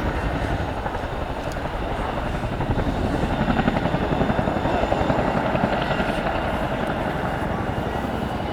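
Boeing CH-47 Chinook tandem-rotor helicopter in flight, its twin rotors beating in a rapid, steady chop.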